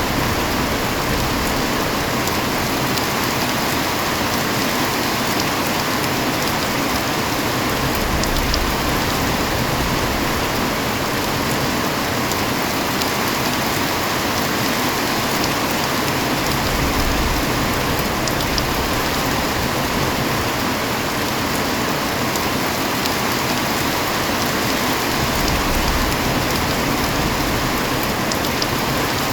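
Heavy rain falling steadily, a dense, even patter with no letup.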